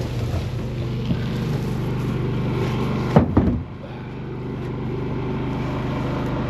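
A vehicle engine idling steadily, with a short burst of loud knocks and thumps a little past three seconds in, after which the engine carries on slightly quieter.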